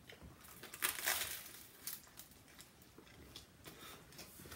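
Faint crunching and chewing of crispy, Cheeto-crusted fried food, loudest about a second in, followed by softer crackles and mouth clicks.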